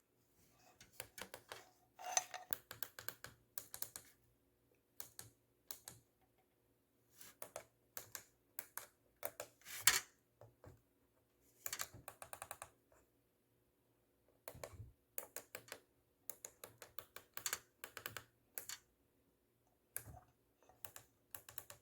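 Push-buttons on a Garmin GMA-347 audio panel being pressed, a faint, irregular string of short clicks coming in small runs.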